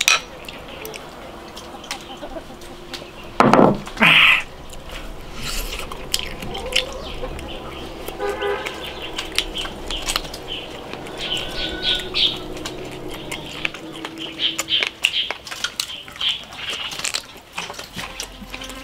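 Mouth sounds of a man chewing and gnawing a tough tendon off roast lamb leg held in his fingers: wet smacks and clicks scattered throughout, with one louder burst about three and a half seconds in.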